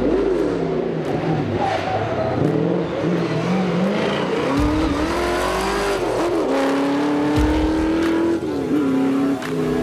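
Chevrolet Corvette C3 Stingray rally car's V8 engine driven hard, its revs rising and falling with gear changes. Later it holds steady high revs, with a brief drop near the end.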